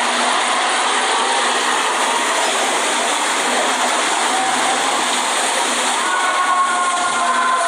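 A passing train's steady rumbling roar. About six seconds in, two high squealing tones join, falling slightly in pitch.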